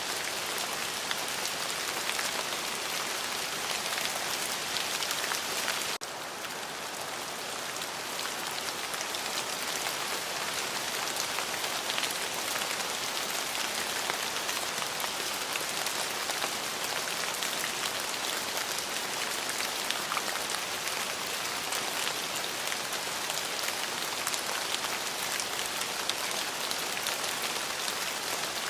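Steady rain falling, a dense patter of drops hitting a surface. The level dips abruptly about six seconds in and builds back over the next couple of seconds.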